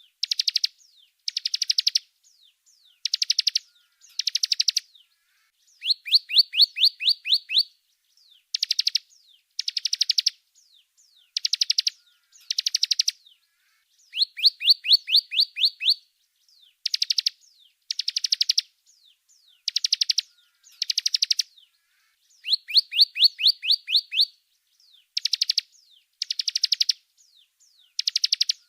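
Small songbird song in a masteran training track: high, rapid runs of sharp chirping notes alternating with short buzzy bursts, in phrases that repeat every second or two.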